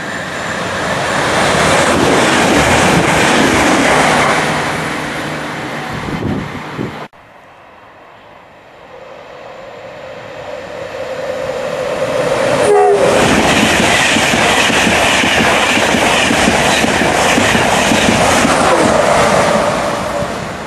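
Two trains passing through the station at speed, one after the other, each a loud rushing roar of wheels on rail with some clickety-clack. The first cuts off abruptly about a third of the way in. The second builds as it approaches and sounds a brief horn blast a little past the middle before rushing past.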